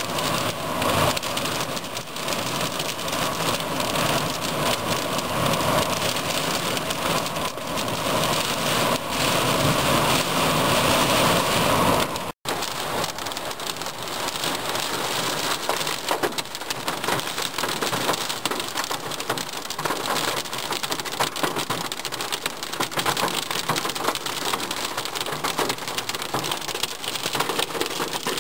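Heavy rain falling in a thunderstorm, a steady dense hiss; about twelve seconds in it cuts off abruptly and resumes as a closer, crackling patter of drops.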